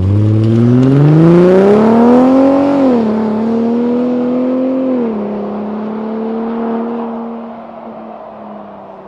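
Ford F-150's 3.5-litre twin-turbo V6 through an equal-length dual exhaust, accelerating hard: the exhaust note climbs for about three seconds, then drops in pitch twice as it shifts up, about three and five seconds in. It then holds and fades away near the end.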